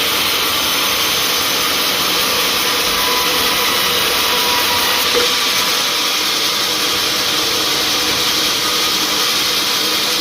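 Sawmill machinery running: a loud, steady, even noise.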